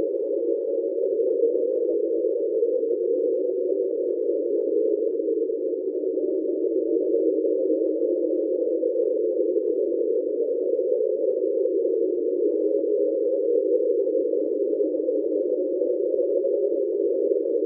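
Underwater hydrophone recording of the deep-sea sound known as 'Train': a steady, droning hum made of several close tones in the low-middle range, holding an even pitch and level throughout. NOAA attributes this sound to a large iceberg grounded on the sea floor off Antarctica.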